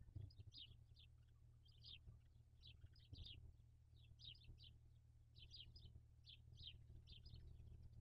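Faint, short, high-pitched bird chirps in small quick groups, about two a second, over a steady low hum.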